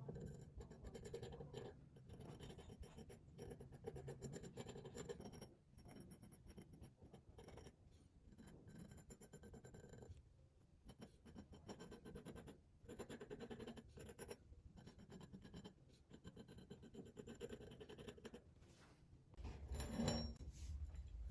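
Faint scratching strokes by hand, in bouts with short pauses, as of something being marked or scraped on metal. A slightly louder knock comes near the end.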